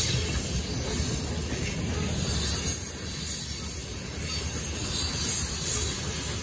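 Freight train tank cars and covered hoppers rolling past close by: a steady low rumble of steel wheels on the rails, with three brief louder surges of high-pitched wheel noise, at the start, about halfway and near the end.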